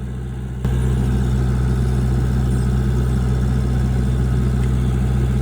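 Vehicle engine idling with a steady low hum. It gets suddenly louder a little under a second in.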